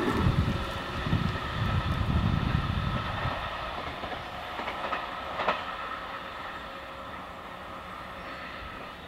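A JR Central 313 series and 211 series mixed six-car electric train passing and pulling away, its wheels clattering over the rail joints for about three seconds before the sound fades steadily. There is a single short sharp click about five and a half seconds in.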